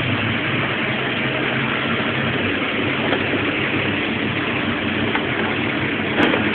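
Chevrolet Opala's carbureted inline-six idling steadily, with a brief click near the end.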